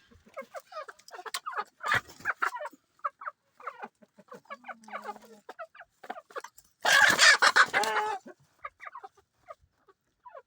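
Chickens clucking with many short calls, and a rooster crowing once, the loudest sound, about seven seconds in.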